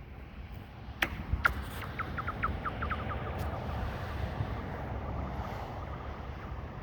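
A rock skipping across thin pond ice: two sharp clicks as it strikes the ice, then a quick run of short chirps, each falling in pitch, coming faster and fading as it slides away over the ice.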